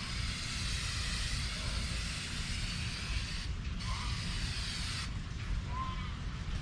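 Garden hose mist nozzle spraying a fine water mist, a steady hiss that thins briefly now and then as the spray moves, over a low steady rumble.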